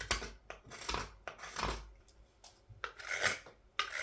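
A carving blade shaving green wood in about half a dozen quick, separate strokes as the bowl of a large wooden scoop is hollowed out, with a few short clicks between the strokes.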